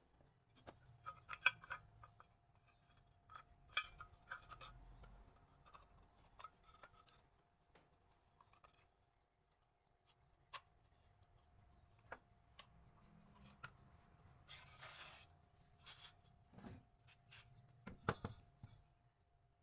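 Faint, scattered clicks and taps of hand tools and small wooden and metal parts being handled, with a brief scrape about three-quarters of the way through.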